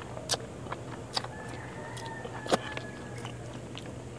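Close-up chewing: wet mouth clicks and smacks of eating a mouthful of fish and rice by hand, three of them louder, about a second apart, over a low steady hum.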